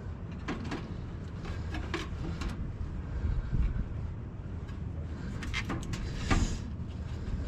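A few light clicks and knocks of hand tools and metal parts being handled on a rooftop HVAC unit, over a steady low rumble.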